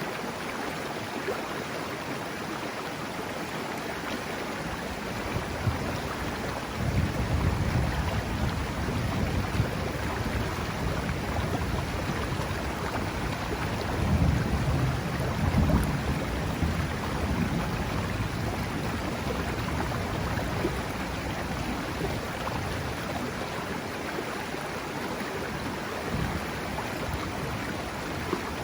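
The Serio, a mountain river, flowing with a steady rush of water. A low rumble swells in about a quarter of the way in, peaks twice, and fades away over the next dozen seconds.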